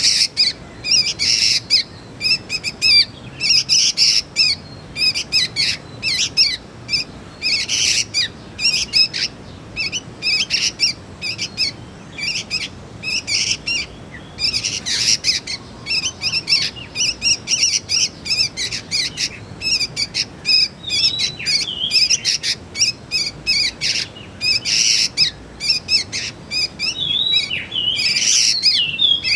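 Juvenile sooty-headed bulbuls (kutilang) giving rapid, high chirping calls almost without pause, with a few sliding notes in the second half.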